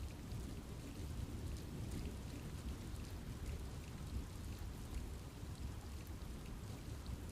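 Steady rain falling in a forest, a low, even wash with scattered individual drops pattering on leaves.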